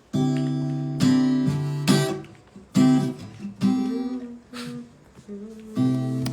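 Acoustic guitar strummed in chords, a new chord struck about every second and left ringing between strums.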